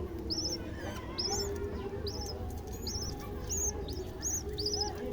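Budgerigar chicks peeping: a run of short, high chirps, each rising and then falling, about two a second, over a faint steady hum.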